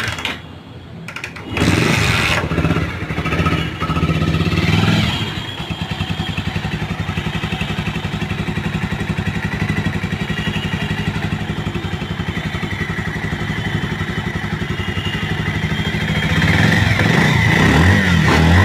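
Bajaj Pulsar 150 single-cylinder motorcycle engine started, most likely by kick since its electric start isn't working, catching about a second and a half in. It revs unevenly for a few seconds, then settles to a steady idle, and the revs rise again near the end.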